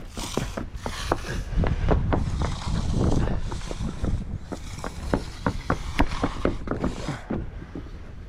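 Hand tools working fresh concrete: rubbing and scraping strokes with many short, sharp knocks at an uneven pace.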